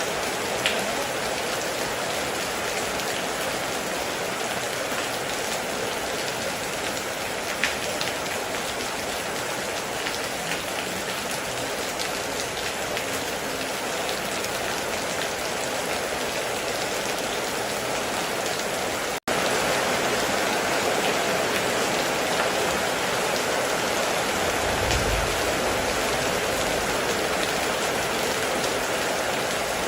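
Steady heavy rain falling in an even hiss, with a few sharper drops. It cuts out for an instant about two-thirds of the way through and comes back slightly louder, and a short low rumble follows near the end.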